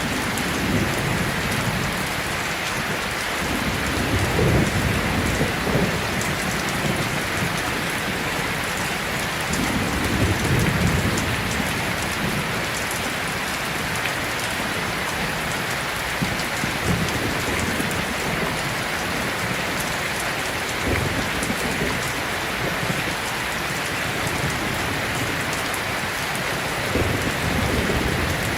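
Heavy rain pouring steadily, with low rolls of thunder swelling up several times.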